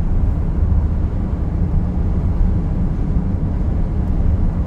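Car interior noise while driving: a steady low rumble of road and wind noise.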